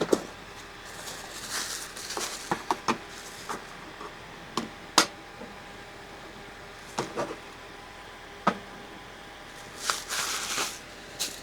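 Objects being handled at close range: scattered light knocks and clicks, with a sharper knock about five seconds in and short rustles near the start and near the end.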